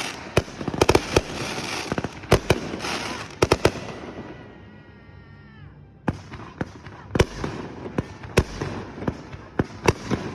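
Consumer fireworks set off by a fire in the pile, exploding in a rapid run of bangs and pops. There is a lull of about two seconds in the middle with a falling whistle, and then a sharp bang sets off more pops and bangs.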